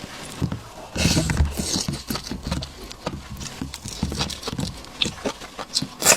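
Close-miked eating sounds: seafood being chewed with wet smacking and crunching clicks, busiest about a second in. A sharp click comes at the very end.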